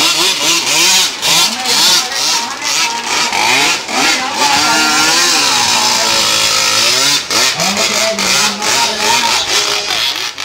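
Small fuel-burning engine of a radio-controlled boat running at high speed with a raspy hiss, its pitch rising and falling as the throttle is worked.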